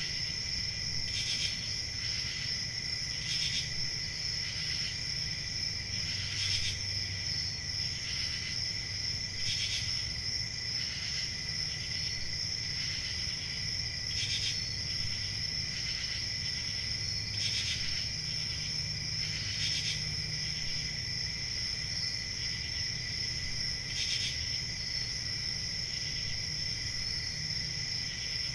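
Crickets chirping in a continuous chorus: a steady high-pitched trill with louder chirps standing out every second or two, over a low background rumble.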